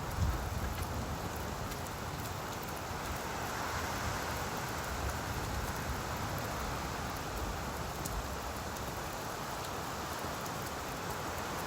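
Steady rainfall pattering on leaves, an even hiss with scattered drop ticks.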